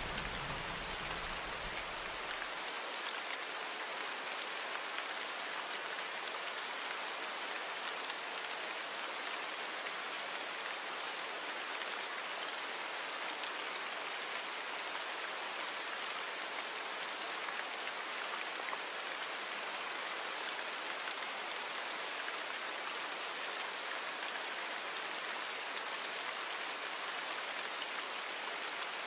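Steady rainfall, an even hiss of many drops on a surface. A low rumble underneath stops about two and a half seconds in.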